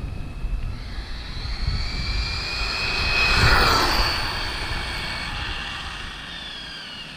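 Arrma TLR Tuned Typhon 1/8 electric buggy at full speed. The high whine of its Spectrum 2050 kV brushless motor and drivetrain grows louder as it approaches and is loudest as it passes about three and a half seconds in. The whine then drops in pitch and fades as the buggy speeds away.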